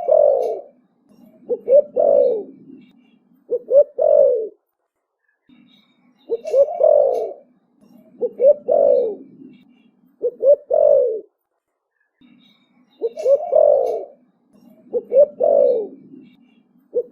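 Spotted dove cooing in a deep 'thổ bầu' voice: a series of coos about two seconds apart, coming in groups of three, with short pauses between the groups.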